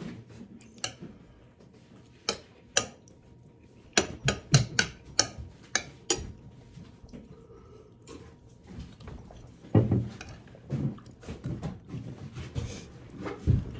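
Cutlery clinking and scraping against a plate while eating: scattered sharp clinks, coming thickest about four to six seconds in, with a few duller knocks later.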